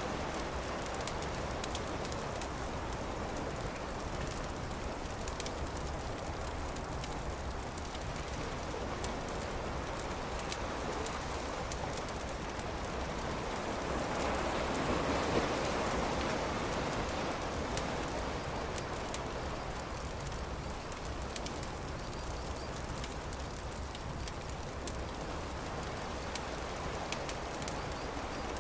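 A campfire crackling with many small, sharp pops over a steady rushing wash of surf, which swells for a couple of seconds about halfway through.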